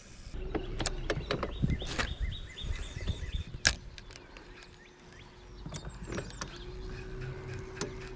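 Small bird chirping in quick repeated notes, over a steady low whine and a few sharp clicks.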